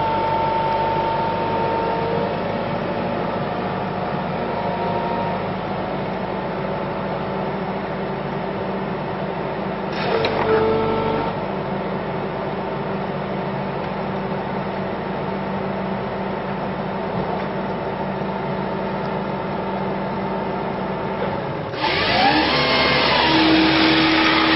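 Excavator-mounted firewood processor head at work: a steady machine drone with engine and hydraulic whine and a few held tones. There is a brief louder surge about ten seconds in. About three seconds before the end it turns suddenly louder and harsher, with a rising whine.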